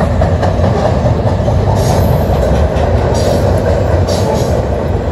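Freight train's open hopper cars rolling across a steel girder bridge: a steady, loud rumble of wheels on rail.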